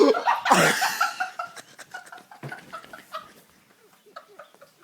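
A sudden shriek, then a run of laughter that fades out over the next few seconds.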